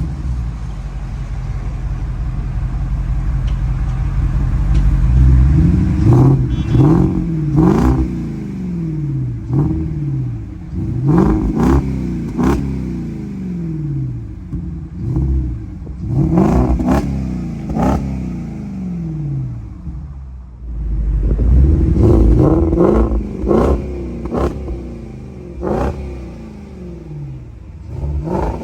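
2012 Porsche Cayenne S V8 through a custom performance exhaust with quad tips, idling and then revved in a series of quick throttle blips, each rising sharply and falling back to idle. The blips come in three bunches, with a short return to idle between them.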